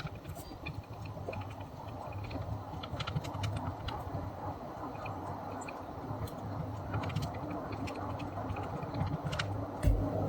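Scattered light clicks and taps of small tools and parts being handled during soldering work on the label maker's ribbon cable, over a steady low hum, with a sharper knock near the end.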